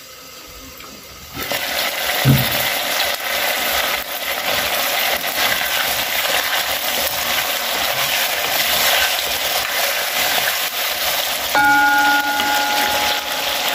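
Chicken wings frying in oil in a pan: a steady, crackly sizzle that starts suddenly about a second and a half in. A steady tone joins for about two seconds near the end.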